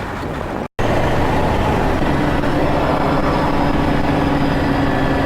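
Steady engine and road noise of a vehicle on the move, a low drone with a faint steady hum. A short dropout under a second in.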